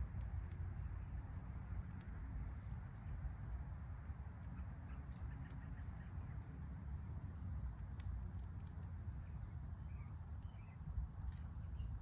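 Wood fire burning in a fire pit: a steady low rush with scattered sharp crackles and pops from the burning firewood.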